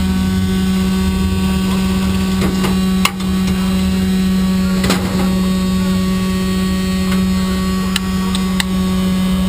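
A steady, loud electrical-sounding hum with a low rumble under it and a few sharp clicks.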